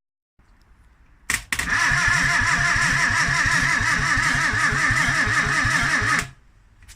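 The freshly rebuilt Morris Minor 948cc A-series four-cylinder engine being cranked on its starter motor. A click sounds about a second in, then the engine turns over for about five seconds with an even, rhythmic beat over a steady starter whine, and stops abruptly.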